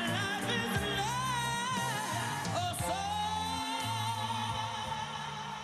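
A woman singing over a backing band with a steady bass line, holding long wavering notes; the music fades down near the end.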